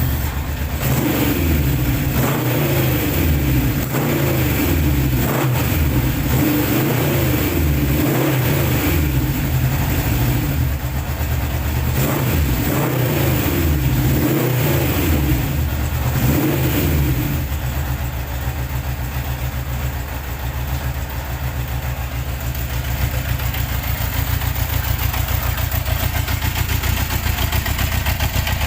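1972 Honda CB750 K2's air-cooled inline four-cylinder engine just started on choke, revved up and down over and over for about the first 17 seconds, then settling into a steady idle.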